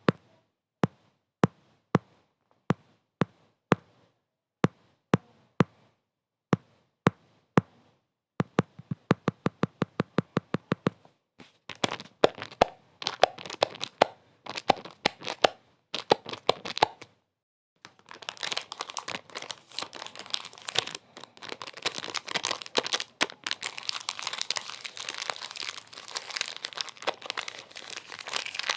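Sharp clicks, at first about two a second, come faster and in denser clusters. After a brief pause a little past halfway, they merge into continuous crackling and crinkling.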